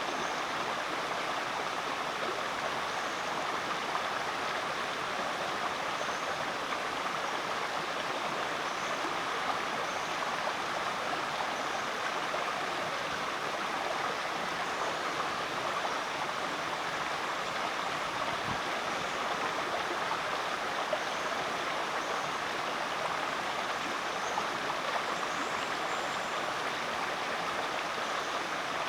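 Rainforest creek running over rocks: a steady rush and babble of flowing water.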